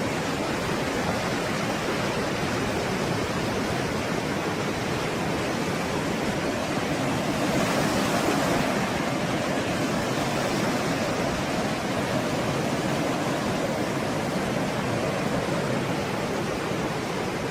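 Stormy sea waves: continuous rushing surf that swells to a louder crest about eight seconds in, then settles back.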